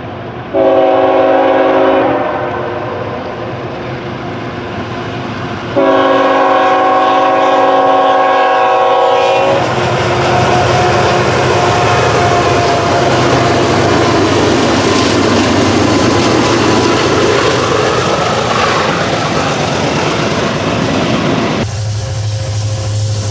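Diesel locomotive air horn sounding a chord, a short blast then a long blast of about four seconds, the closing pattern of a grade-crossing signal. The train then rolls past, wheels clicking over the rail joints. Near the end the sound switches abruptly to a steady low hum.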